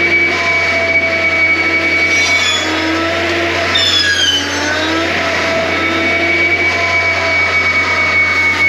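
Compact track loader (John Deere 333G) running under load, a steady low hum with a high whine, its pitch shifting up and down as the load changes.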